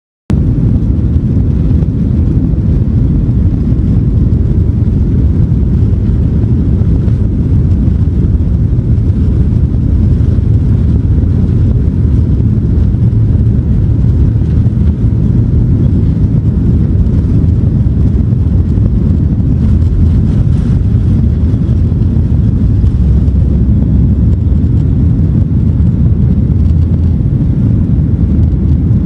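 Airliner cabin noise: a loud, steady low rumble of jet engines and airflow that starts abruptly and holds unchanged.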